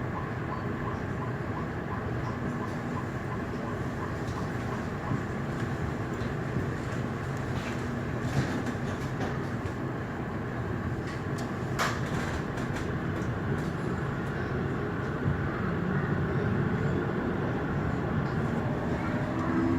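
Frankfurt U-Bahn light-rail train heard from inside the car while running between stations: a steady rumble with scattered clicks from the wheels on the track. Near the end a faint whine slowly rises in pitch.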